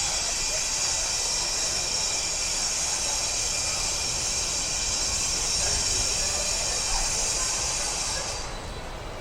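Light-rail tram passing on the street, a steady high hiss and whine over a low rumble, which cuts off abruptly about eight seconds in.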